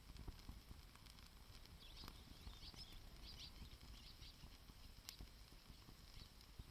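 Wood campfire crackling faintly: scattered sharp pops over a low rumble.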